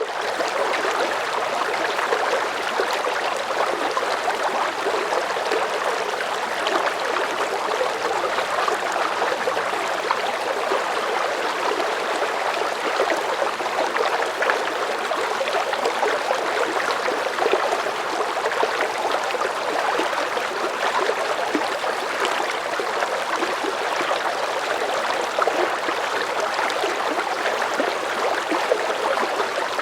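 A river's medium current flowing: a steady rush of water with fine gurgling, strongest in the middle and upper range and even throughout.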